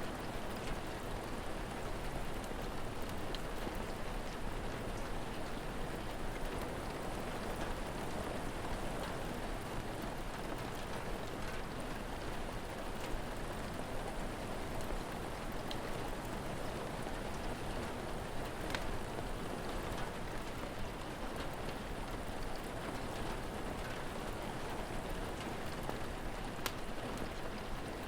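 Steady rain falling, with a few sharp, isolated pops from a crackling wood fire.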